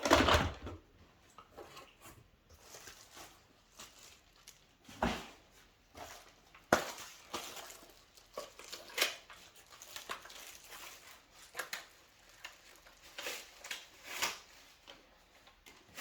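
Plastic vacuum-cleaner attachments and their packaging being handled: irregular knocks, clatters and rustling, with the loudest knock at the very start and several more about 5, 7 and 9 seconds in.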